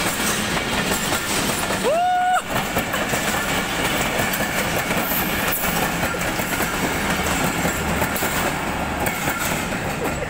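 Passing passenger coaches of a Pakistan Railways train, their wheels running over the rails in a continuous rumble that eases slightly near the end as the last coach moves away. About two seconds in, a brief whistle that rises and then holds its pitch for about half a second.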